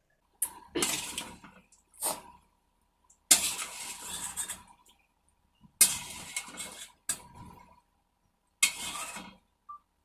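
Close-miked eating of stir-fried seafood: a series of about seven loud, noisy mouth sounds, each under a second or so, with short gaps of quiet between them.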